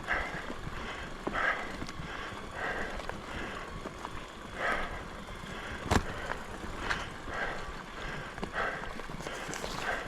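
Mountain bike riding over a bumpy dirt trail: tyres and frame rattling in uneven surges, with a single sharp knock about six seconds in.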